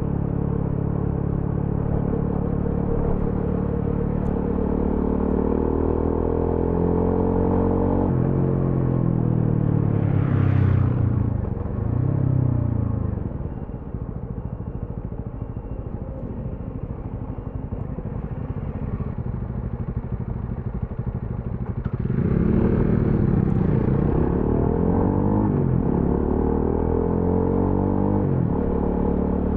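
A TVS Apache RTR 200 4V's single-cylinder engine under way, revs climbing and dropping repeatedly through gear changes. The engine falls to a quieter, low-rev stretch around the middle, then pulls up again.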